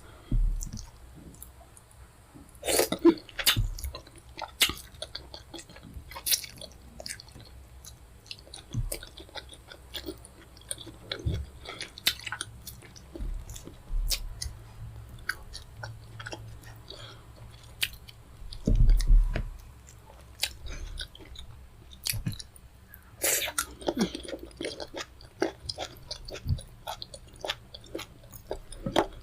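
Close-miked chewing and mouth sounds of someone eating fufu with pepper soup: wet smacks and clicks at an irregular pace, with a few louder bursts.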